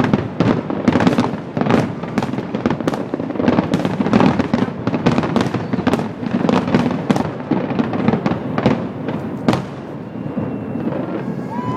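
Aerial fireworks bursting in a dense, rapid barrage of cracks and booms, several a second, that stops about ten seconds in.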